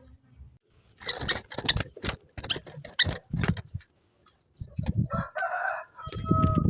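A run of sharp clattering knocks, then a rooster crowing near the end, one long held note.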